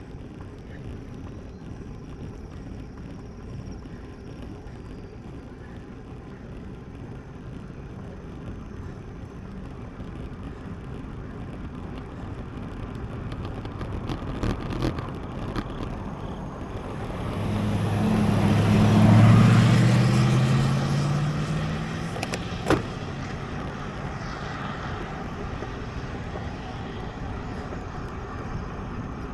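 Steady wind and road rush on a bike-mounted camera, then a motor vehicle passes the rider: its engine note swells loudly to a peak just before the 20-second mark and falls in pitch as it goes by. A single sharp click comes a few seconds later.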